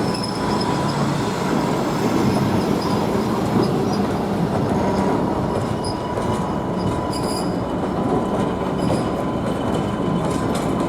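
Train passing on the rails: a steady rolling rumble of wheels on track, with a few brief high squeals of wheels against the rail.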